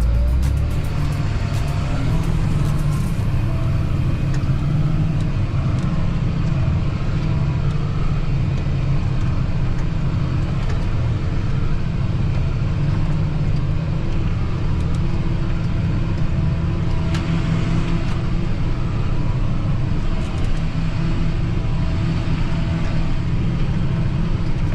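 John Deere 8230 tractor's six-cylinder diesel engine running steadily, with a few light clicks in the first few seconds.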